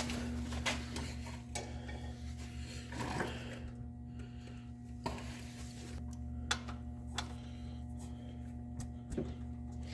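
Scattered light clinks and knocks, spaced a second or so apart, over a steady low hum.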